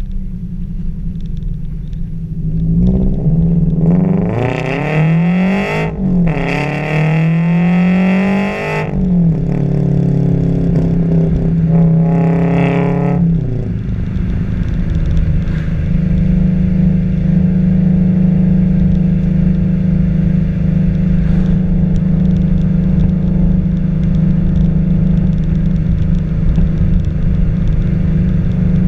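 FA20 flat-four engine breathing through unequal-length headers, an overpipe and a straight track pipe in place of the muffler: it idles, is revved up twice into a high rasp that drops away each time, gets one shorter blip, then settles back into a steady idle.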